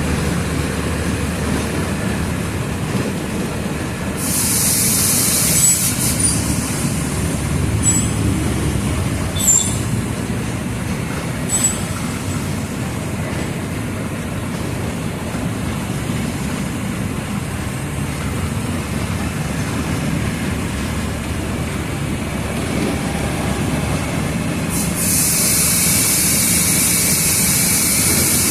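Mercedes-Benz OF 1722M city bus's front-mounted diesel engine running with a steady low rumble. A loud high hiss of air lasts about two seconds some four seconds in, a few sharp clicks follow, and another steady hiss starts near the end.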